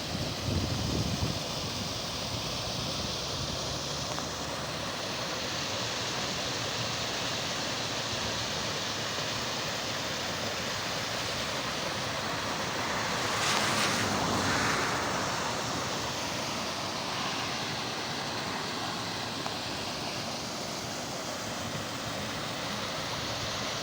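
Heavy rain falling in a steady hiss, swelling louder for a couple of seconds about halfway through.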